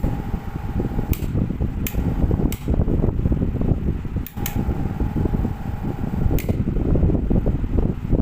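Ceiling fan running, with heavy low air noise, a faint high hum that comes and goes, and sharp ticks every second or so at uneven spacing.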